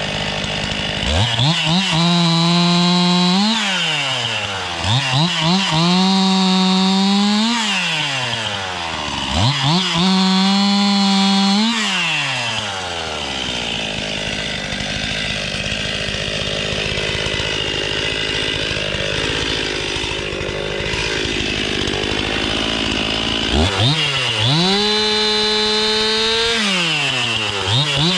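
Stihl MS 261 two-stroke chainsaw throttled up to full speed in runs of two to three seconds and dropping back to idle between them, as when cutting branches. It runs up three times in the first half, idles for about ten seconds, then runs up twice more near the end.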